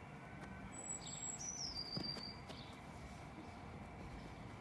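A bird singing in the background: a few high, thin whistled notes that step down in pitch over about a second and a half, over quiet background noise, with a soft knock about two seconds in.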